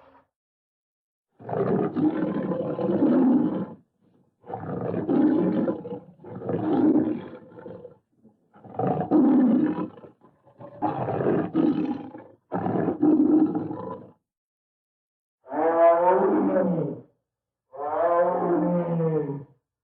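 Recorded big-cat roars and growls as a sound effect: eight separate calls of one to two and a half seconds, with clean silence between them. The last two have a more wavering, pitched snarl.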